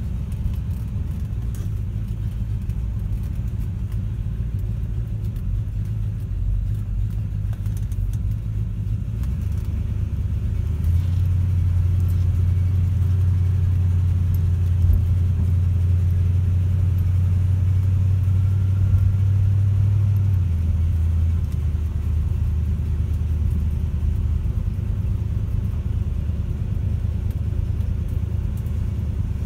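The 1970 Chevelle SS396's big-block V8 running as the car drives slowly, heard from inside the car: a deep, steady engine note that grows louder about a third of the way in, holds for roughly ten seconds, then eases back.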